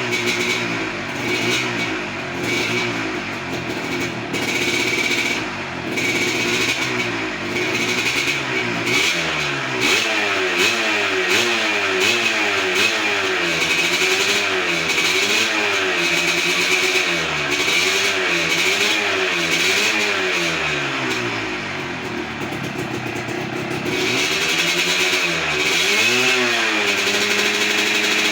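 Yamaha RXZ 135 cc two-stroke single-cylinder motorcycle engine, race-tuned with an aftermarket exhaust, revved up and down over and over. Near the end it climbs once more and holds a steadier, higher speed.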